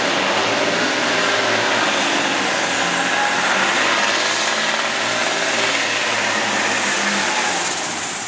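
John Deere 4430 altered farm-stock tractor's turbocharged six-cylinder diesel running at full power, pulling the sled down the track. It is steady and loud, and a high whine falls away near the end as the run winds down.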